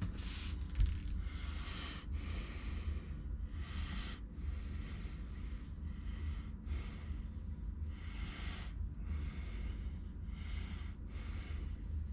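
A person breathing close to the microphone, about a dozen breaths roughly one a second, over a steady low hum.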